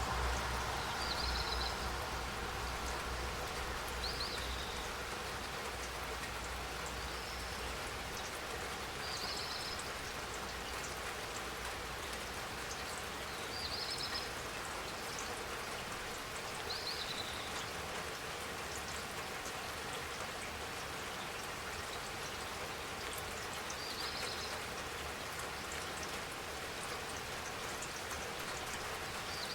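Steady rain falling, with short high chirps every few seconds. A low rumble dies away over the first few seconds.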